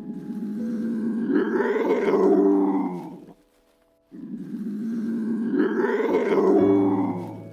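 A large animal's long call, rising and then falling in pitch, given twice with a short pause between.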